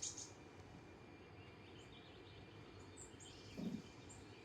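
Faint, scattered bird chirps over a low steady background noise, with a brief low sound about three and a half seconds in.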